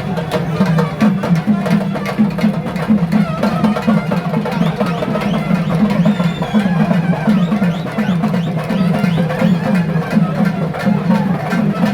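Drums beaten in a fast, steady rhythm, with a crowd of voices chanting over them: the drumming of the pettai thullal ritual dance.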